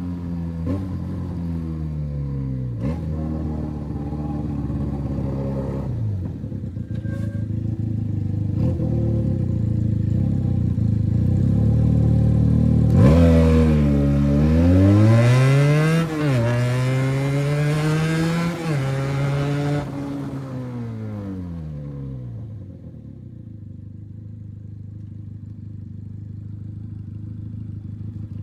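Benelli 302 motorcycle's parallel-twin engine on a free-flow exhaust, pulling with its pitch climbing and dropping back at each gear change. From about halfway it revs up and down in a few sharp swells, then settles to a quieter low, steady idle near the end.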